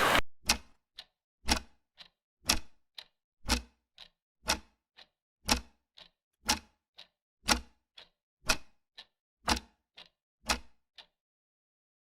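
Clock ticking in an even tick-tock, about two ticks a second, alternating louder and softer, stopping about eleven seconds in. A short burst of hiss ends just as it begins.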